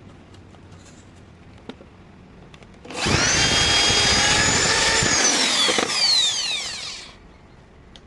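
An electric power tool starts about three seconds in and runs for about three seconds, then is switched off and its motor winds down with a falling whine.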